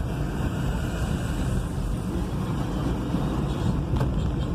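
Steady engine and road noise heard from inside the cab of a diesel vehicle driving in traffic, with a single sharp click about four seconds in.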